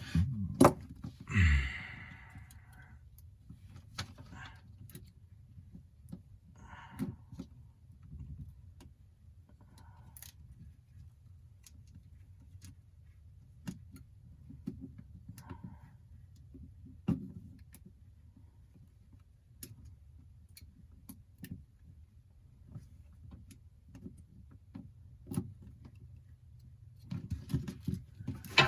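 Scattered small clicks and taps of hand tools and small parts being handled during a phone repair, with a brief rustle early on, over a low steady hum.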